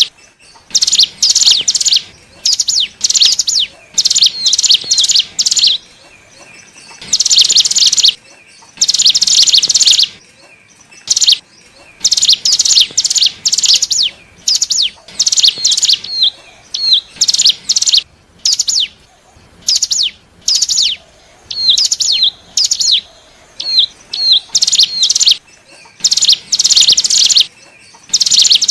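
Ciblek gunung (cigun), a prinia, singing in rapid runs of sharp, high chirps and trills. The runs last one to two seconds each and are broken by short pauses. This is a lure song for drawing in wild cigun.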